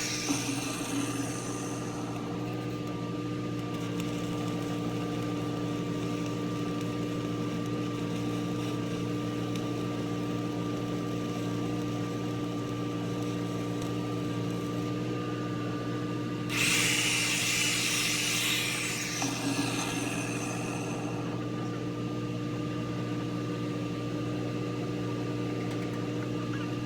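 Truck-mounted engine-driven welder running with a steady hum. Over it comes the hiss and crackle of a stick-welding arc, for the first second or two and again for about four seconds starting two-thirds of the way through.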